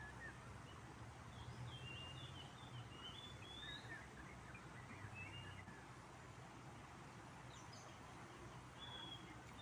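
Faint outdoor ambience: small birds give short, high chirps in a couple of clusters, a second or so in and again near the end, over a steady faint hiss and low hum.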